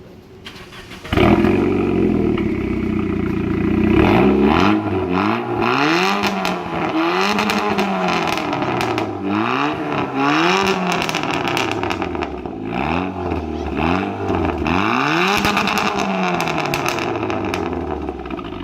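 Saab 9000 2.3-litre turbocharged four-cylinder engine through a tuned aftermarket exhaust. It starts up suddenly about a second in and idles. From about four seconds it is blipped again and again, the exhaust note rising and falling with each rev.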